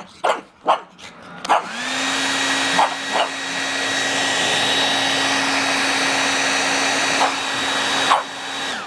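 Dog barking a few times, then a handheld hair dryer switched on about a second and a half in, spinning up to a steady whine and rush of air. The dog barks a few more times over it, and the dryer shuts off near the end.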